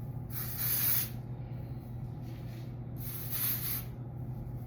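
Aerosol dry shampoo sprayed onto the hair roots in two short hissing bursts, about two and a half seconds apart.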